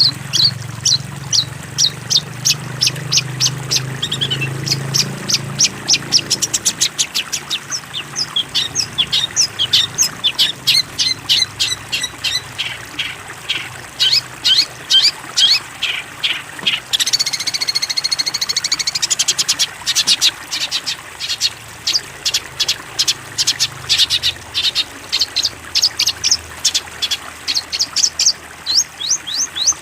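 Long-tailed shrike (cendet) song: rapid runs of short, high chirps, several a second, with a buzzier, wavering phrase about two-thirds of the way through. A low hum sits under the first few seconds.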